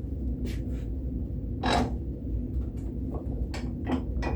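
Scattered knocks and clatters of objects being handled and set down, loudest about two seconds in and again in a quick cluster near the end, over a steady low hum.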